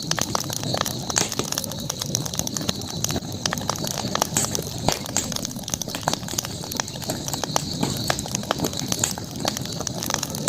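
Wood campfire crackling: irregular sharp pops and snaps over a steady low rustle of burning, with a steady high hiss underneath.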